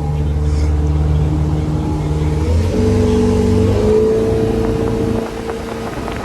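Motorboat engine running under way, its note shifting upward about two and a half seconds in and easing off about five seconds in.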